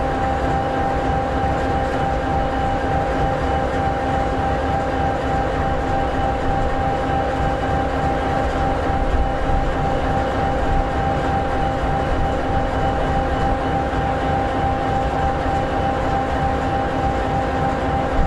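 An SD60E locomotive's EMD 16-710G3B sixteen-cylinder two-stroke diesel idling, a steady low rumble with a steady whine on top.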